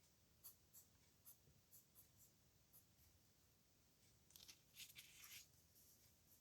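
Faint scratching of a pen nib on paper in short strokes, with a denser run of strokes about four to five seconds in.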